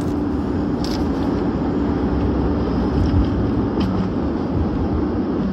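A vehicle driving, a steady rumble with a hum that drops in pitch about four seconds in.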